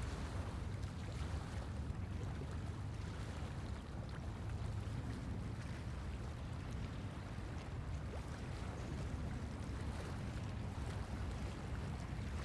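Steady low rumbling noise with a fainter hiss above it.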